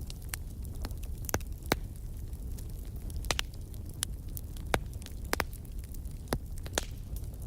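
Wood fire crackling: irregular sharp pops and snaps, a few much louder than the rest, over a low steady rumble of the flames.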